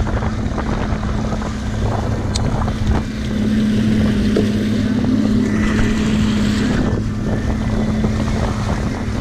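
Boat motor running with a steady hum, with wind buffeting the microphone. A brief hiss comes in about six seconds in.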